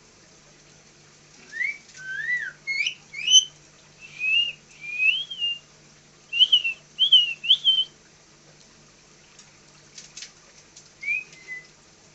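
Pet Indian parrot whistling about nine short notes in quick succession, each sliding up and down in pitch, then a single note after a pause near the end.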